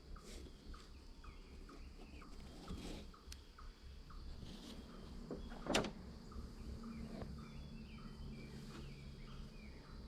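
Outdoor ambience: a steady high insect drone with a small chirp repeating about twice a second, and a single sharp knock about six seconds in.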